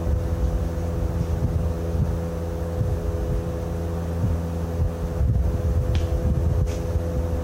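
An engine or motor running steadily at a constant speed, with a couple of faint light ticks about six seconds in.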